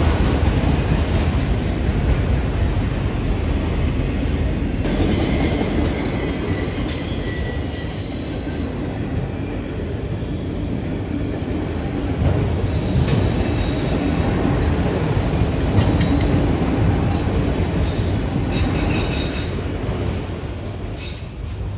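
A train rolling past with a steady rumble of wheels on rail, with stretches of high-pitched wheel squeal about five seconds in, around the middle, and again near the end.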